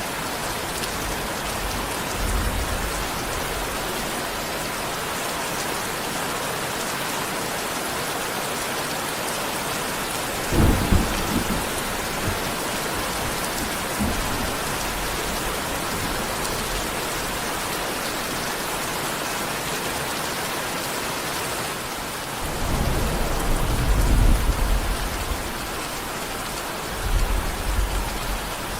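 Steady rain falling, with thunder: a short, sharp clap about a third of the way in and a longer low rumble near the end, with softer rumbles between.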